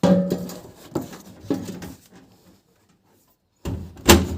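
Handling noises at a washing machine: scattered knocks and rustles as shoes are shifted about in the drum, then a quiet moment and a few sharp, louder clunks near the end.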